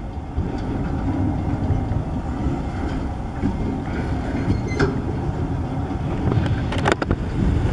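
Freight train of bulkhead flatcars loaded with pulpwood rolling slowly past: a steady low rumble of steel wheels on the rails, with a couple of sharp clicks in the second half.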